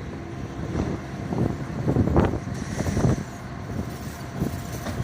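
A vehicle engine running, with a few irregular low thuds.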